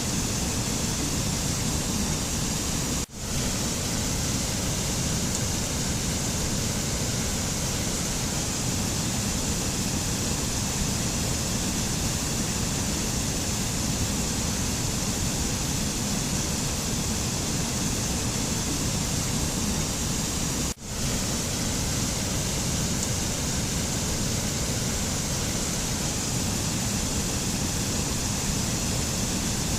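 Steady, even rushing noise with no pitch or rhythm, the kind of continuous nature ambience used for meditation. It cuts out for a split second twice, about three seconds in and again about twenty-one seconds in.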